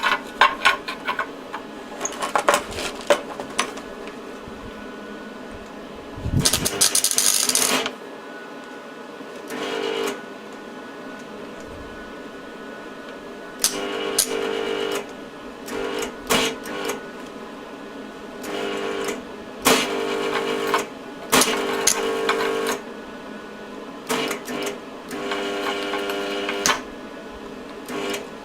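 A small electric motor running in repeated short bursts of about a second each, each at a steady pitch, after a few sharp metallic clicks and a brief loud hiss around the middle.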